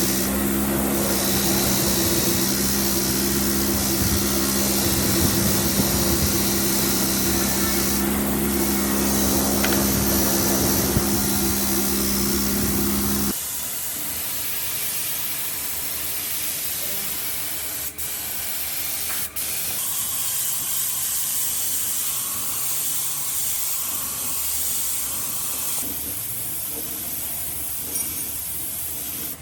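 A motor-driven machine runs with a steady hum for the first half. The sound then cuts to a steady hiss of compressed air spraying, briefly interrupted twice.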